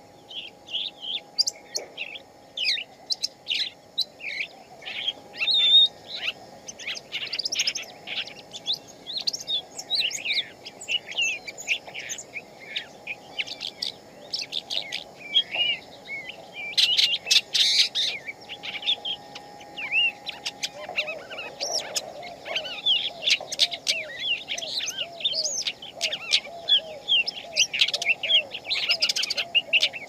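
Songbirds chirping and singing: a dense, continual run of quick high chirps and trills. A lower, rapidly repeated call joins about two-thirds of the way in.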